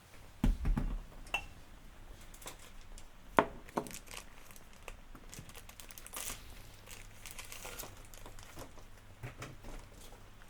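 Sounds of tea being made: crinkling and tearing of a wrapper, with knocks and clicks of dishes. There is a low thump about half a second in and a sharp click a few seconds later.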